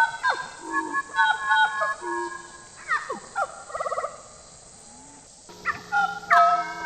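Hooded butcherbird singing: clear, fluting whistled notes and sharp downward-sliding calls, with a fast rattling trill about four seconds in, a short lull, and the whistles resuming near the end.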